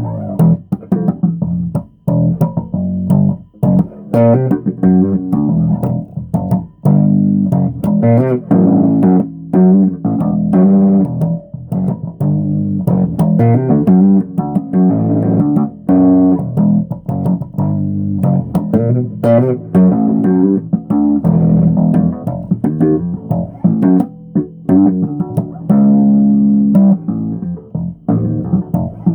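Bass guitar played solo: a busy run of short plucked notes with sharp attacks.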